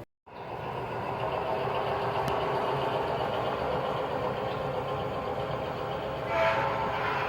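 O scale model diesel train running on the layout: a steady running sound with a few held tones, following a brief dropout at the start and briefly swelling louder near the end.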